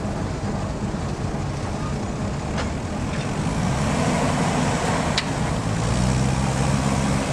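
Diesel engine of a TEM2U shunting locomotive running under load. Its note strengthens from about three and a half seconds in and again near six seconds. There are sharp clanks at about two and a half and five seconds.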